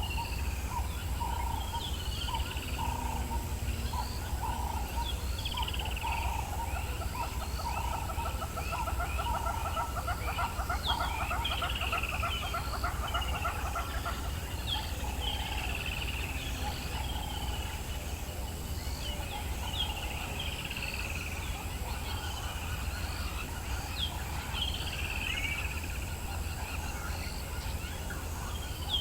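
A dawn chorus of wild birds in the African bush. One call sweeps downward and repeats every couple of seconds, a fast rattling trill runs from about six to fourteen seconds in, and short repeated notes sound near the start. Under them lie a steady low rumble and a thin, steady high tone.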